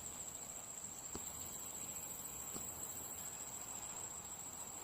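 Crickets chirring in a steady, unbroken high-pitched drone, with a few faint ticks.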